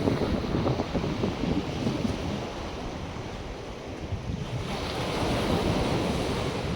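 North Sea surf breaking and washing on a sandy beach, with wind buffeting the microphone in a low rumble. About two-thirds of the way through, the hiss of a wave washing in grows louder.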